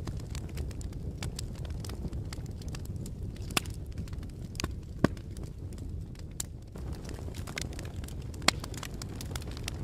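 Fire crackling: a steady low rumble of flames with scattered sharp pops and snaps, a few of them louder, the loudest about five seconds in.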